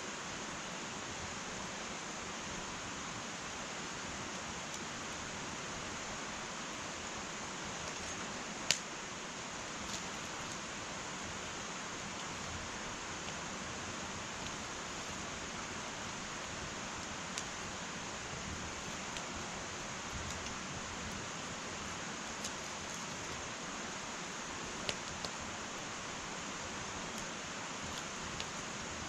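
Wood fire burning in an irori sunken hearth: a steady hiss with scattered sharp crackles and pops, the loudest pop about nine seconds in.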